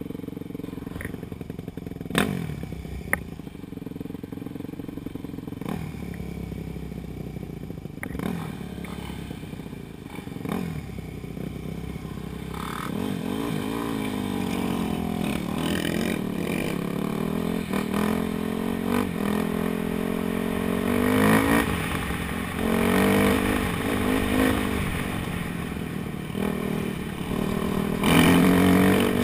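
Dirt bike engine running at low revs with a few short throttle blips and two sharp knocks near the start. From about halfway it revs up and down again and again as the bike accelerates, and it grows louder toward the end.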